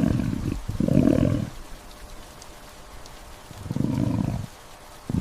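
Three short, low animal calls from a cat, at the start, about a second in, and near four seconds in.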